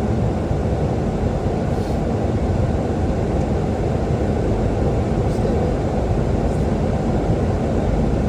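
Steady rushing cockpit noise of a Boeing 737-800 on approach, the sound of airflow and engines heard on the flight deck with the landing gear down.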